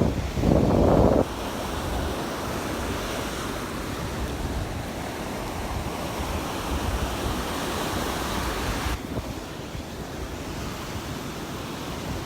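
Surf washing on the beach in a steady, hissing wash, with wind buffeting the microphone. A brief loud burst of wind rumble comes about a second in, and the hiss softens about three-quarters of the way through.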